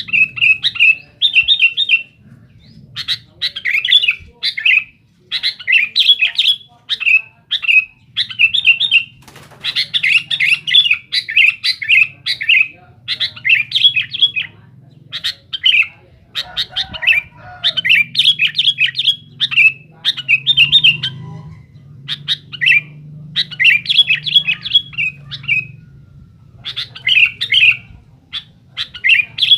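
Male sooty-headed bulbul singing a loud challenging song: short bubbly phrases of chirps, one after another with brief pauses. A faint low hum runs underneath.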